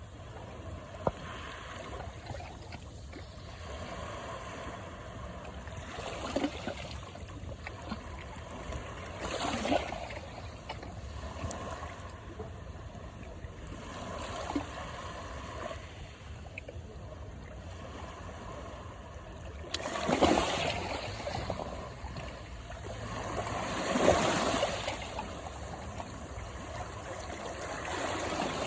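Sea waves washing in and receding on the shore, a steady wash of water with several slow swells, the loudest two coming about two-thirds and five-sixths of the way through.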